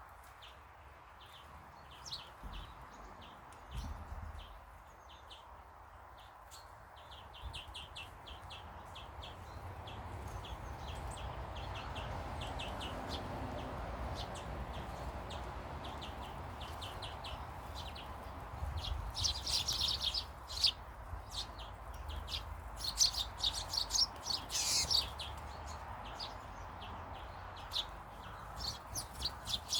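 Small garden birds chirping in quick, short, high notes, with louder, busier flurries of chirps about two-thirds of the way through, over a steady background rush.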